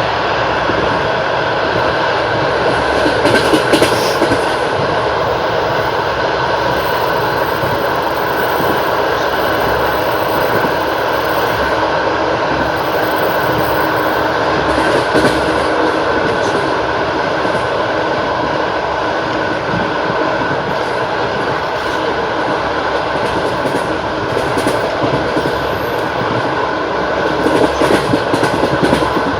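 Russian Railways long-distance passenger train running at speed: a steady rolling rumble of the carriage, with the wheels clattering over rail joints in short clusters a few seconds in, around the middle and near the end.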